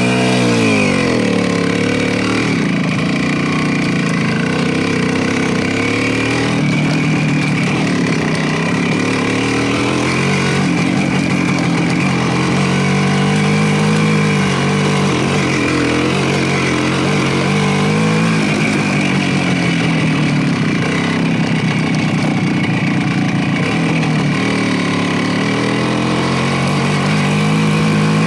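Motorcycle engine running under way, its pitch repeatedly rising and falling as it accelerates, shifts gear and eases off.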